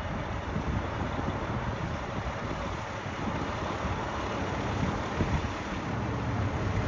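Steady vehicle rumble with wind buffeting the microphone, growing a little louder near the end; no siren is sounding.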